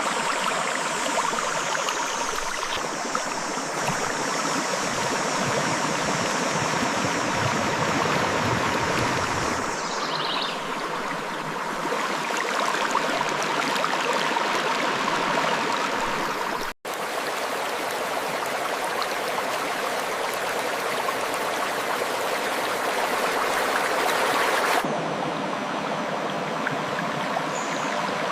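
River water flowing and rushing over rocks in a steady stream, changing its tone abruptly a few times and cutting out for an instant about two-thirds of the way through.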